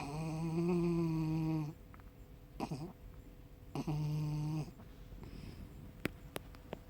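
Yorkshire terrier snoring in its sleep: two long, steady, pitched snores, the first about a second and a half long and the second shorter, with a brief sliding snort between them. A few sharp clicks follow near the end.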